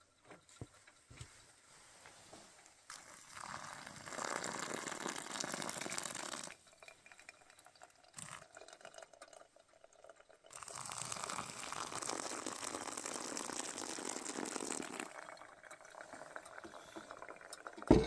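Water pouring or splashing in two stretches of a few seconds each, with a short thump at the very end.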